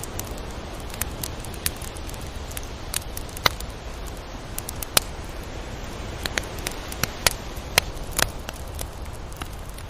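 Tropical beach ambience: a steady low wash of noise with scattered sharp crackling clicks, the loudest clustered through the middle.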